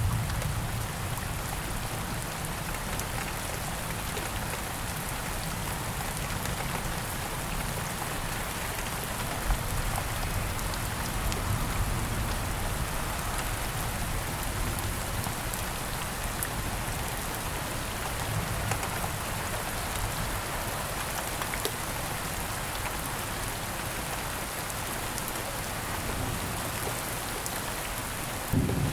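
Steady gentle rain falling on surfaces, an even hiss with scattered drop patter. A low rumble of thunder begins just before the end.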